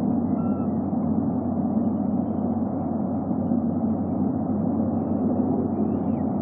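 Steady low rumbling background noise picked up by an outdoor nest-camera microphone. A faint short whistled bird call sounds about half a second in, and a faint whistle that rises and falls comes near the end.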